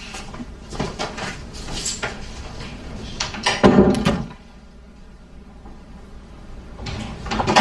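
Door and handling sounds: several light knocks and clicks, with a louder thump about three and a half seconds in.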